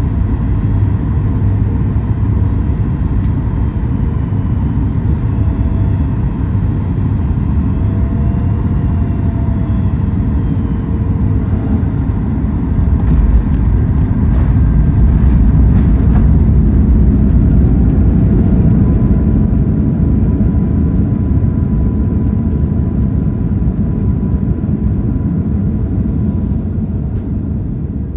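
Cabin noise of a Boeing 737 MAX 8 heard from a forward window seat: a loud, steady low rumble. About 13 seconds in there is a jolt with rattling, then the rumble grows louder for several seconds and slowly eases, fitting touchdown followed by reverse thrust and braking.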